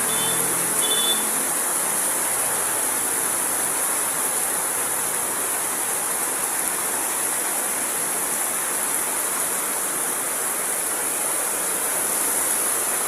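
Heavy rain pouring down steadily, an even, dense hiss. A brief faint high tone sounds near the start.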